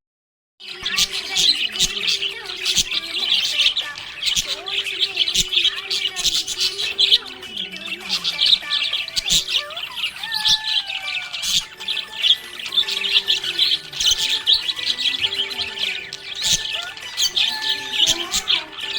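A group of budgerigars chirping and chattering continuously, a dense overlapping mix of quick high chirps, warbles and squawks, starting after a brief gap at the very beginning.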